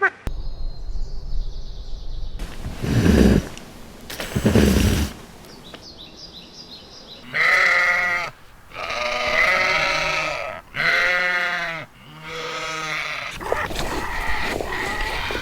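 Bleating from goats or sheep: two short, low calls, then about halfway through a run of four long, wavering bleats.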